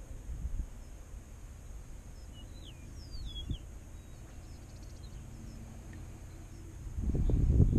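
A bird gives two quick downward-sliding chirps over a steady low outdoor rumble; near the end a louder low rumble swells up.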